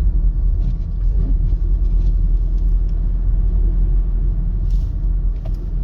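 Steady low rumble of a 2025 Mercedes-Benz GLC 300 being driven on a snow-covered road: tyre and road noise with the engine running underneath, and a few faint ticks.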